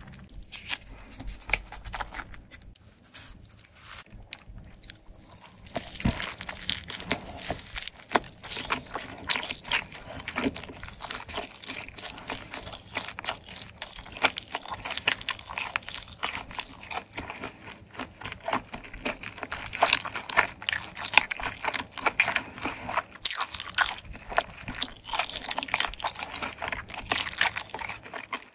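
Close-miked biting and chewing of a slice of garlic marble steak pizza. The first few seconds are quieter; about six seconds in comes a bite into the crust, then steady crunchy chewing full of small clicks and crackles.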